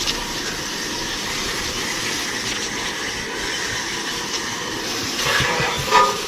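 Steady hiss and splash of a garden hose spraying water onto an AC condenser's fan motor and coil, cooling the overheated motor. A short, louder sound comes near the end.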